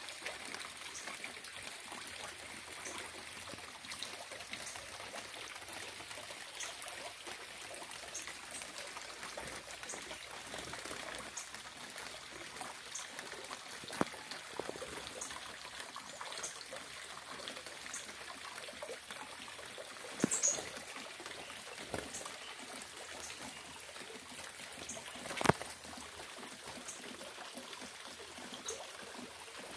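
Steady rain with water trickling and dripping, many small drop ticks scattered through it, and a few louder single taps in the second half.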